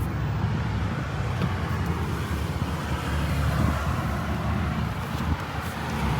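Road traffic passing on a highway: a steady rumble of engines and tyres that swells and eases as vehicles go by.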